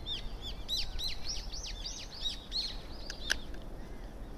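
A bird chirping: a rapid run of short, high chirps, each rising and falling, over the first three seconds. A single sharp click comes about three seconds in.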